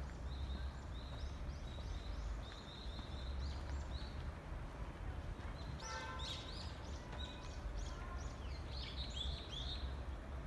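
Small birds chirping and singing in the trees: repeated short high notes, then a busier flurry of calls from about six seconds in. A steady low rumble runs underneath.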